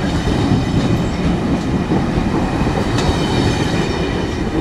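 A train rolling past on the rails: a steady, loud rumble of wheels on track, with faint high ringing tones above it.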